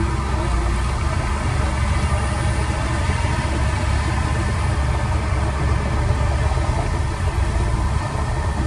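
Heavy construction machine's diesel engine running steadily, a dense low rumble that holds level throughout without revving up or down.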